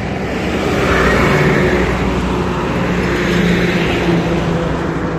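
Motor vehicle engine and tyre noise on a road, a steady engine hum under a rushing sound that swells about a second in and again around three and a half seconds, like vehicles driving past.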